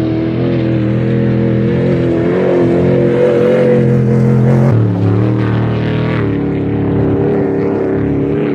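Off-road race vehicle engine running loud at full throttle, with its pitch dropping briefly about five seconds in.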